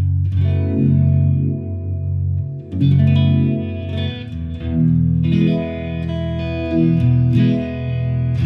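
Electric guitar, a Fender Stratocaster, played through a Fender Mustang GTX100 modelling amp on its 'Breathe' preset: sustained notes and chords ringing out in phrases, with new phrases starting about three and five seconds in.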